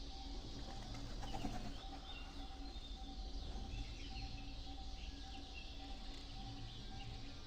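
Birds chirping, many short calls, over a steady low hum.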